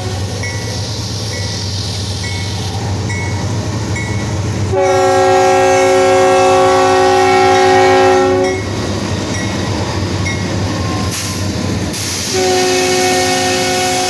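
Diesel locomotive air horn of a Union Pacific freight train sounding two long chord blasts, the first about four seconds long starting around five seconds in, the second starting near the end, over the steady low rumble of the GE diesel locomotives. A bell rings steadily, about once a second, in the stretches between the blasts.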